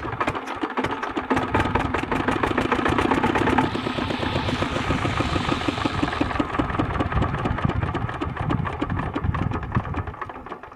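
Rajkot-made single-cylinder diesel engine of a water pump set running steadily, with an even, rapid knocking beat from its firing strokes.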